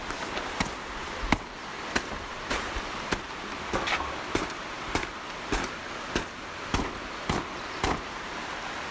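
Blunt end of a tent pole lightly tapping a wet silnylon tarp again and again to shake the water off, a short knock about every half second.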